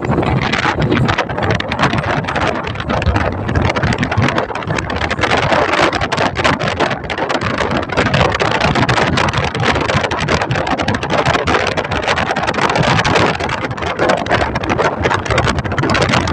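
Wind buffeting the microphone aboard a fishing boat at sea: a loud, steady rushing noise full of short crackles, with the rush of the boat and sea mixed in.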